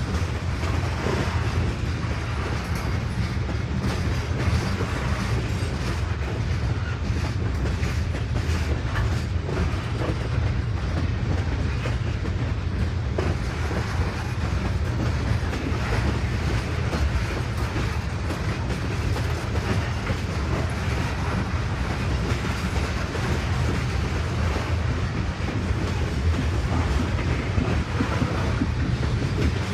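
Train cars rolling past at steady speed: a continuous low rumble with the clickety-clack of wheels over rail joints.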